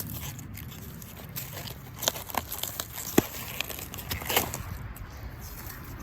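Leafy plants being handled and picked by hand: rustling, with a few sharp crackles and snaps of stems and leaves breaking, the sharpest about three seconds in.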